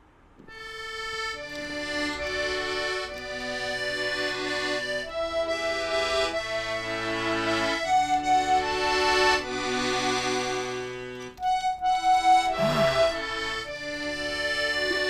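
An accordion playing a tune, a melody over sustained chords, with a brief break about eleven seconds in before it carries on.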